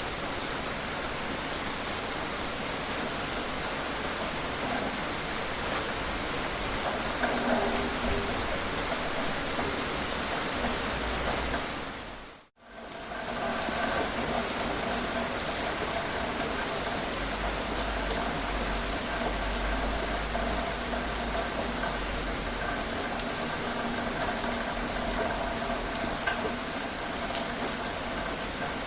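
Gentle rain falling steadily, a dense even patter of drops. About halfway through it fades out for a moment and comes straight back, with a faint steady hum of tones beneath the rain afterwards.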